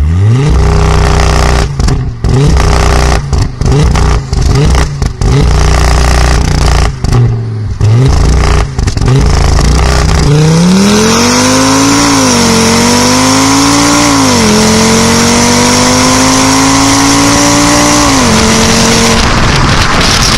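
Skoda Yeti's 2.5 TFSI turbocharged five-cylinder engine through a Milltek exhaust, held at a steady low note with repeated brief cut-outs for about ten seconds. It then launches under hard acceleration: the pitch climbs steeply, drops sharply at two gear changes and drops once more near the end.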